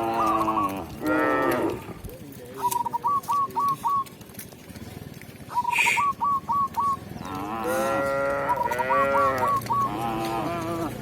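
Cows mooing: two calls near the start and three more in quick succession in the second half. A bird's short phrase of four or five quick notes repeats between them every couple of seconds.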